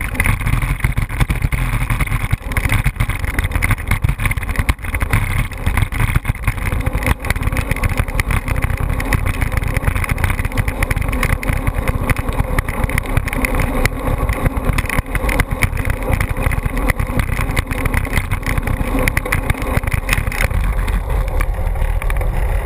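An engine running steadily under a heavy, fluttering low rumble.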